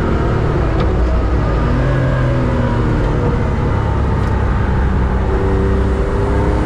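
BMW 325 Cup race car's engine under hard driving, heard from inside the cabin, its note shifting up and down in pitch as the car brakes and accelerates, over loud road and wind noise.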